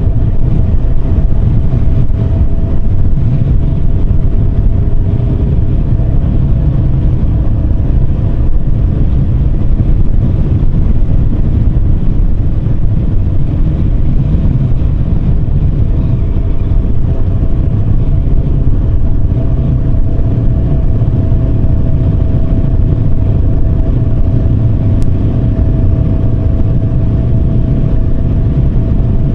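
Yamaha Serow 250's single-cylinder engine running at a steady cruise under a loud, constant low rumble of wind and road noise on the microphone.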